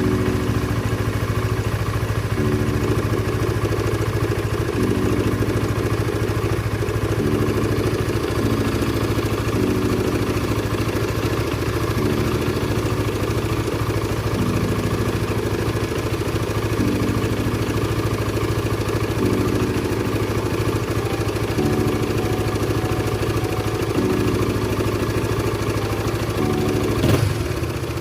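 Honda RS150 motorcycle's single-cylinder engine idling with a steady mechanical noise, the noise that cam chain tensioner adjustment is meant to cure. Near the end there is one brief, louder blip.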